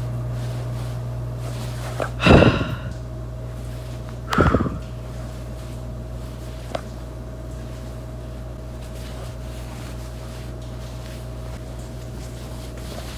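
A steady low electrical-sounding hum with a faint higher tone, broken by two loud, short noises about two seconds apart.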